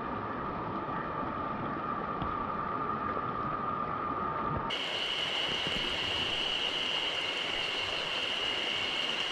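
Mountain stream rushing steadily. About halfway through the sound changes abruptly to a brighter rush with a steady high tone over it.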